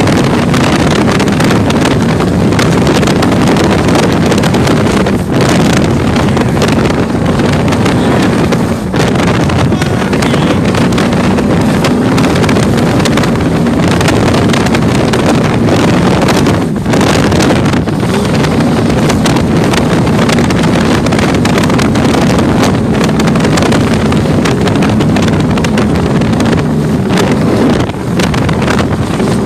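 30-foot Chris Cat catamaran powerboat running at speed in rough water: a steady engine hum under heavy wind buffeting on the microphone, with rushing water and hull noise. There are a few brief dips in the din.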